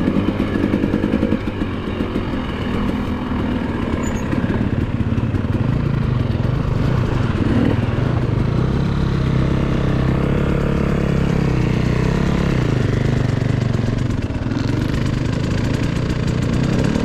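Dirt bike engine running, the throttle rising and falling, with a steadier stretch of engine note about halfway through.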